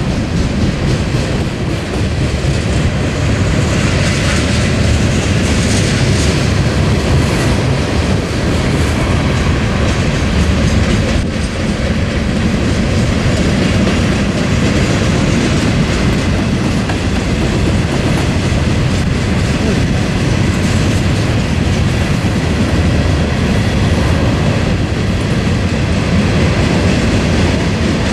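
Long freight train of tank cars, covered hoppers and flatcars rolling past at close range: a steady, loud rumble of steel wheels on rail.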